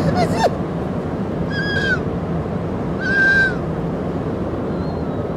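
A man whimpering in a staged meltdown: two short, high-pitched whines, each dropping at the end, the second louder. Under them runs the steady rumble of a moving subway car.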